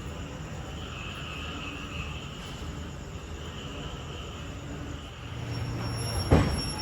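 Moving passenger train heard from inside the carriage: a steady running rumble, with one sharp clunk about six seconds in.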